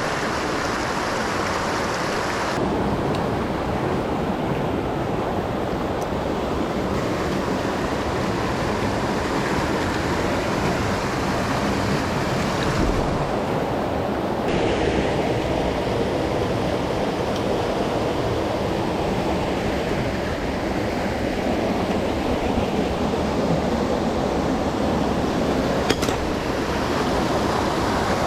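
Fast mountain stream rushing over rocks, a steady dense water noise whose brightness shifts a little now and then.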